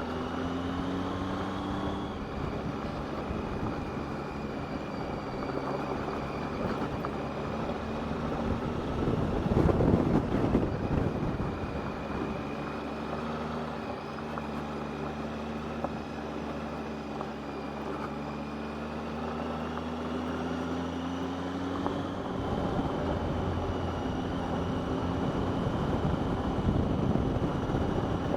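Motorcycle engine running under way, its pitch rising as it accelerates about a second in and again near the end, with wind buffeting the microphone, strongest about ten seconds in and over the last few seconds.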